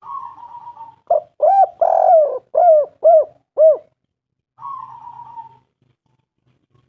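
Spotted dove cooing: a soft rough phrase, then a run of about six loud arched coos, then another soft phrase.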